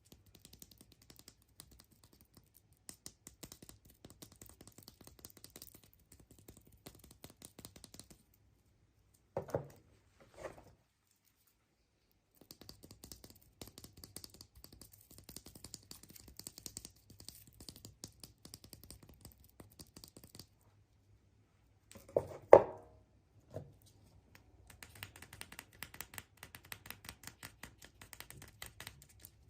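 Crinkling and crackling of foil and plastic wrappers being handled and torn, heard as rapid fine clicks that stop and start in several stretches. A few louder knocks and pops of plastic toy capsules being handled and snapped open break in, the loudest a little past two-thirds of the way through.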